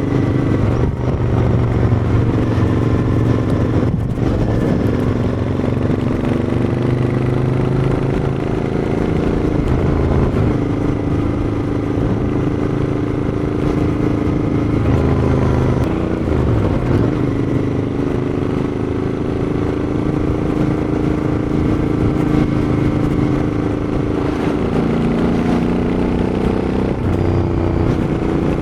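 Royal Enfield Interceptor 650's 648 cc parallel-twin engine running through its exhaust, with the engine note shifting pitch several times as the throttle changes.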